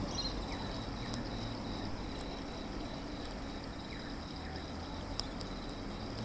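Steady chirring of crickets in the background, with a few faint sharp clicks.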